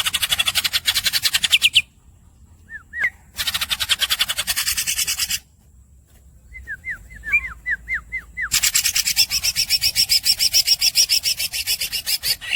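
Green leafbird (cucak ijo) singing: long, fast rattling trills, the 'long rolls' of its song, broken by short down-slurred whistled squeaks; three trills, the last and longest about four seconds, with a run of quick whistled notes just before it.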